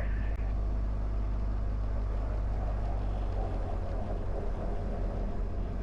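Diamond DA20's piston engine idling, a steady low drone heard from inside the cockpit while the aircraft stands at the runway holding point.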